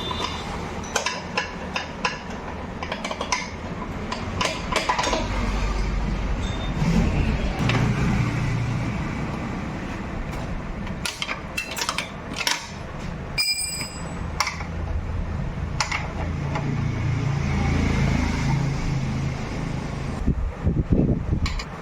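Metal tools and parts clinking and knocking irregularly, as a motorcycle is being dismantled, over a low, uneven rumble.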